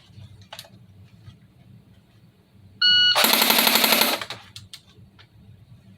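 An electronic shot-timer start beep, then one burst of full-auto fire of about a second from an FN P90 airsoft replica: ten rapid, evenly spaced shots, timed at about 700 rounds per minute with 0.09 s splits.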